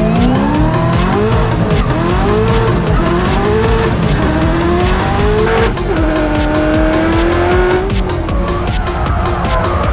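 Drift car engines revving, their pitch rising and falling over and over, with tyres screeching. Electronic music with a steady beat plays over them.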